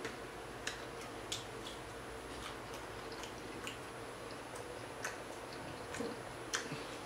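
Close-miked chewing of a mouthful of loaded nachos, heard as scattered short wet mouth clicks and smacks, about one every second.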